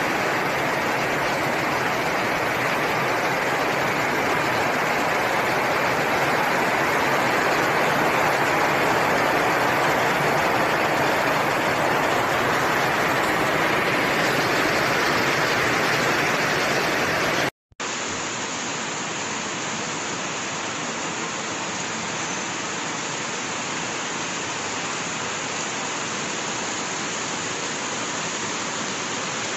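Heavy rain pouring steadily, a dense even hiss. A little over halfway through it cuts out for a moment, then carries on slightly quieter.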